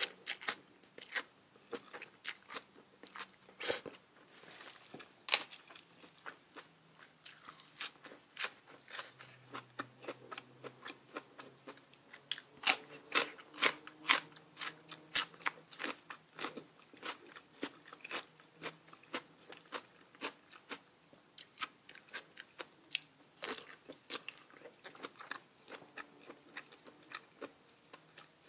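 A person biting and chewing crunchy food: spicy papaya salad with raw vegetables. Many short, sharp crunches follow one another throughout, thickest and loudest about halfway through.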